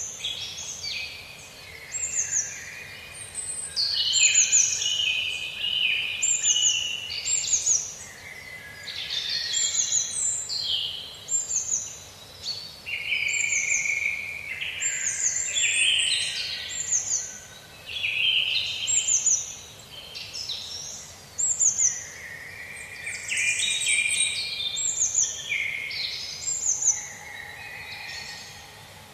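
Several songbirds singing at once: short, high, falling chirps repeating about once a second over lower warbling phrases.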